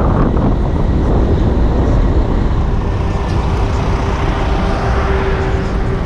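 City street traffic heard from a moving bicycle, with wind rumbling on the action-camera microphone. A steady hum comes in about halfway through and holds.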